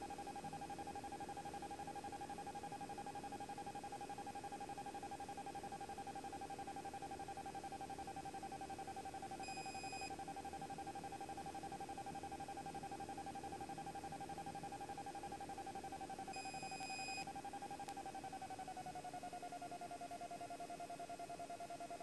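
Faint steady electrical whine on a light aircraft's intercom audio, one held tone with overtones that drops slightly in pitch about 18 seconds in. Two short faint high beeps sound about 10 and 17 seconds in.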